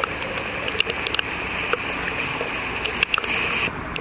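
Steady hiss of rain and running water, dotted with scattered sharp ticks.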